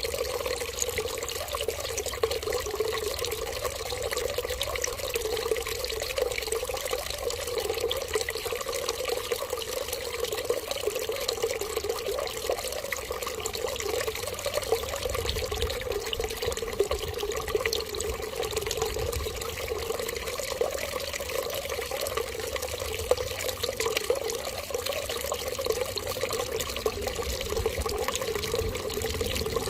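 Water running steadily in an unbroken, even splashing stream.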